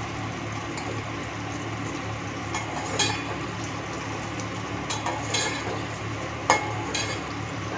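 Onion, tomato and green chilli frying gently in oil in a steel pot, a steady soft sizzle over low flame, while a slotted metal spatula scrapes in the pot and clinks sharply against its steel side a few times.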